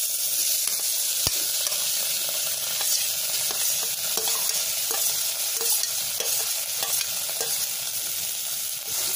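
Mashed paneer sizzling as it drops into hot desi ghee in a steel pan, with a steel spoon scraping and clinking against a steel plate as it pushes the paneer in.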